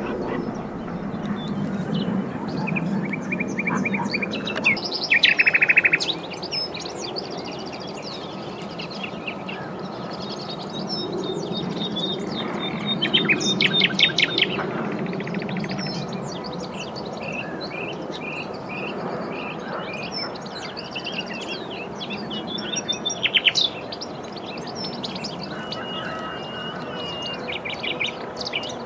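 Common nightingales, two or more, singing from cover: varied phrases of pure whistles, rapid repeated notes and fast trills, with loud rattling bursts about five seconds in and again around fourteen seconds. A low steady background rumble runs underneath.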